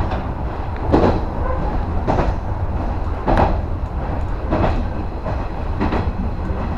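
JR West 115-series electric train heard from inside its cab, running along the track: a steady low rumble, with a sharp clack of the wheels over a rail joint about every second and a quarter.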